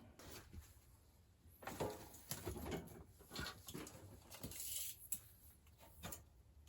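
Faint, irregular handling noises: scattered knocks, clicks and rustling scrapes, with a brief hissing rustle about five seconds in.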